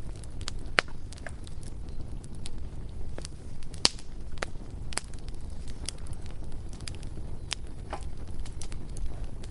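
Bonfire burning, with irregular sharp crackles and pops over a low steady rumble of the flames.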